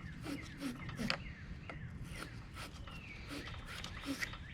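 Wire-brush battery post cleaner scraping on a battery terminal post, a rhythmic rasping of about three or four strokes a second.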